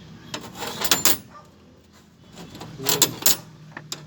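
Sharp metallic clinks and knocks of hand tools and parts being handled on metal, in two short clusters about two seconds apart, over a low steady hum.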